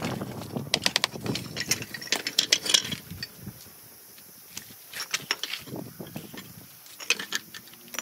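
Stone pieces and hand tools clicking and knocking together in quick runs of sharp clicks, in three clusters with quieter gaps between.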